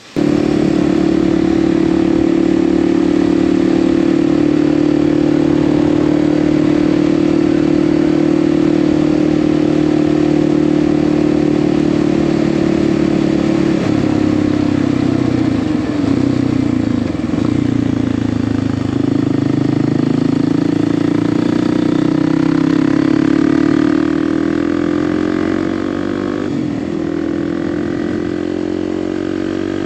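Kawasaki KLX300's single-cylinder four-stroke engine running, first at steady revs, then falling and rising around the middle, and climbing steadily in pitch near the end as it picks up speed.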